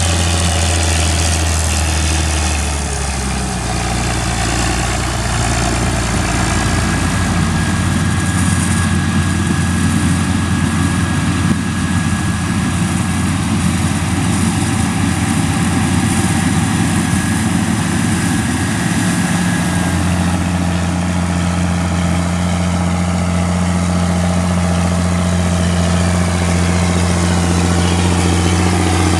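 Engine of corn-harvest farm machinery running steadily. Its pitch changes about three and a half seconds in and again about twenty seconds in.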